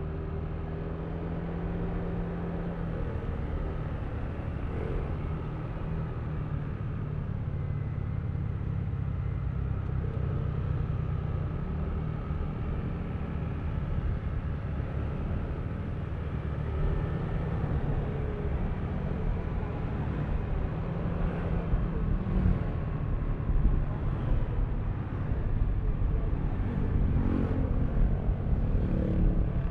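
Yamaha Aerox V3 scooter's 155 cc single-cylinder engine running under way, its note shifting a few times with the throttle. A rough low rumble builds and grows louder in the last third.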